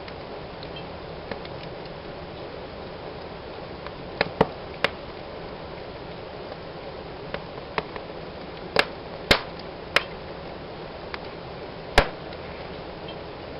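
Fire burning in a fireplace: a steady rush of flames with sharp crackling pops. A few pops come about four seconds in, and several louder ones between about nine and twelve seconds.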